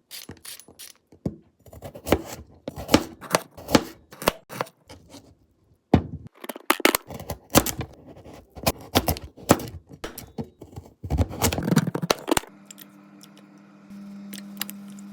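Food-preparation sounds: a run of irregular sharp knocks and clicks, like a knife chopping vegetables on a cutting board. Near the end they stop and a kitchen appliance starts a steady low hum.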